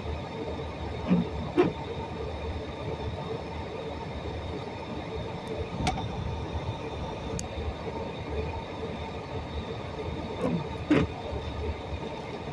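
Steady rain with a low rumble and a faint hum under it. A few short sharp knocks stand out: two about a second in, one near the middle, and two near the end.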